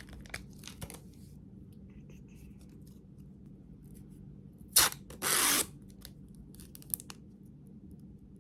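Small handling sounds: light scattered clicks, then a sharp click near the middle followed at once by a half-second rasp.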